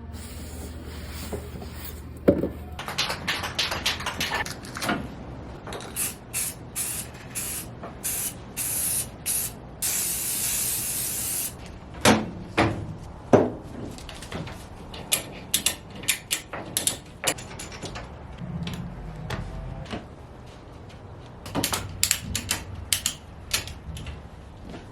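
A series of short hissing bursts, the longest held for about a second and a half near the middle, followed by scattered sharp knocks and clicks of hand work.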